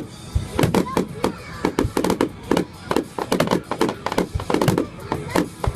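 Fireworks going off in quick succession: many sharp bangs and crackles every second, with a few deeper thuds among them.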